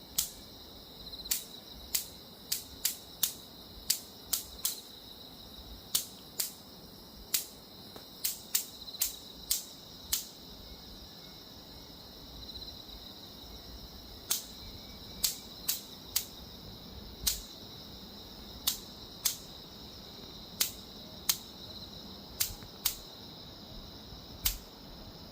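Electric mosquito zapper snapping as insects hit its grid: about thirty sharp cracks at irregular intervals, with a pause of a few seconds near the middle, over a steady high-pitched drone.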